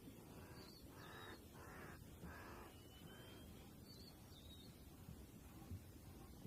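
Plains zebra stallion calling: a faint series of about five harsh, barking calls in quick succession, the call by which his harem recognises him.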